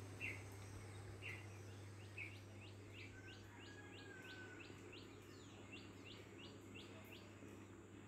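Faint flycatcher calls: a few short notes about half a second apart, then from about two and a half seconds in a fast run of short upswept notes, three or four a second, that stops about a second before the end.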